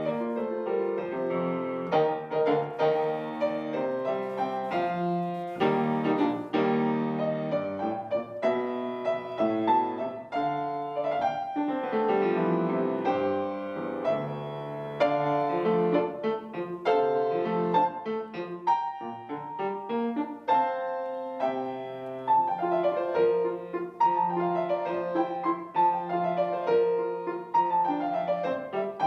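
Solo piano playing a hymn arrangement, with a steady flow of struck notes and chords and several descending runs in the second half.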